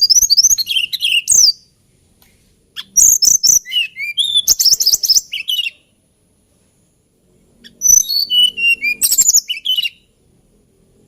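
Hill blue flycatcher singing three phrases of rapid, high, gliding notes, each one to three seconds long, with short pauses between them.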